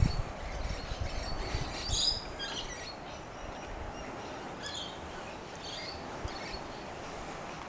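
Scattered short, high bird chirps over a faint, steady outdoor background, with a brief low thump right at the start.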